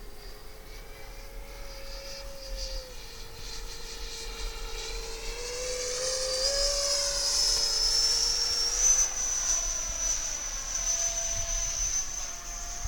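Radio-controlled model jet flying past with a high-pitched whine. The whine rises in pitch and grows louder toward the middle, loudest about eight to nine seconds in, then holds high.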